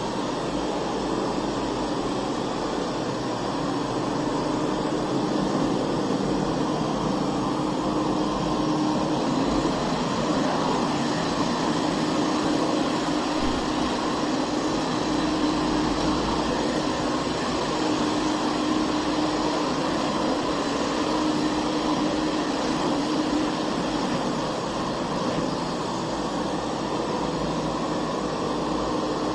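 Puppyoo R6 robot vacuum running: a steady rush from its suction fan, with a faint hum that comes and goes.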